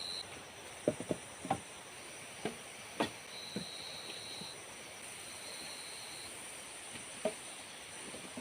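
Forest insects keep up a steady high-pitched shrilling, with one call switching on and off. Over it come a scatter of short sharp knocks and snaps, several in the first three seconds or so and one more near the end.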